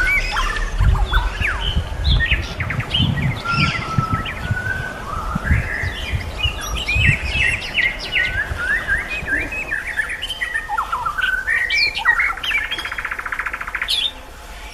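A white-rumped shama and a sikatan londo flycatcher singing against each other: a busy run of quick whistles, chirps and sweeping glides, with a fast buzzy trill near the end. Low thumps sound on the microphone in the first half.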